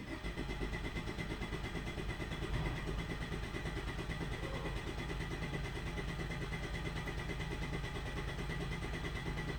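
2013 Ford Escape 1.6 L turbocharged direct-injection petrol engine cranking on its starter for about ten seconds with the throttle held wide open, for a relative compression test. The cranking stays steady and even, and the engine's compression is judged fine.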